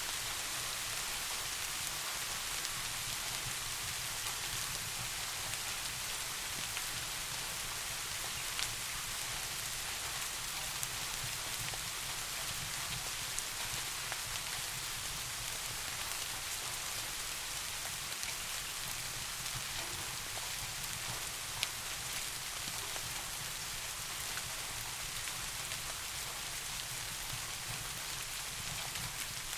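Steady soft rain falling, an even hiss of drops with a low steady rumble underneath and a few sharp ticks.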